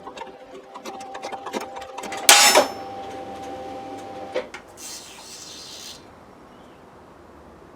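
Hand-tool work on metal: quick clicks, one loud metallic clank about two seconds in, and a steady ringing tone that stops about halfway through. A high hiss follows for about a second.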